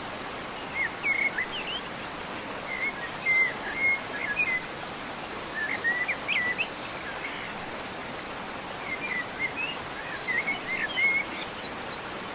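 Birds chirping and warbling in short bursts of quick notes, four or so phrases a few seconds apart, over a steady background hiss.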